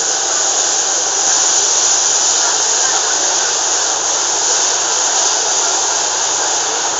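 Cabin noise of an MTR K-Train, a Hyundai Rotem electric multiple unit, running at speed through a tunnel: a loud, steady rush of wheels on rails and air, with no change in level.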